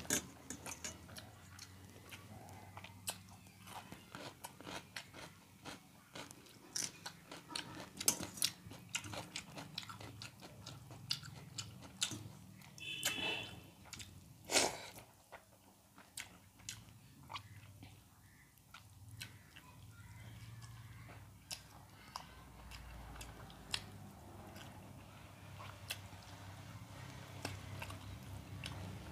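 Close-up eating sounds of a person eating soaked rice by hand with crunchy fried namkeen mixture and cucumber: steady chewing with many small crunches and mouth clicks.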